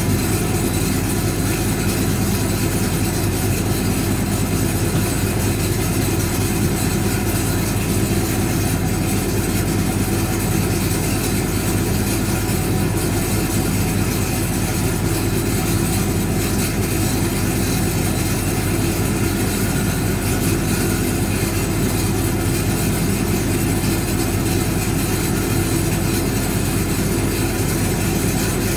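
1965 English Electric Liberator front-loading automatic washing machine running with a steady mechanical hum and drum noise.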